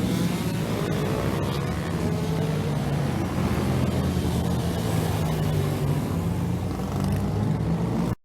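Racing motorcycle engines running loud. The pitch falls in the first second, then settles into a steady drone that cuts off suddenly at the very end.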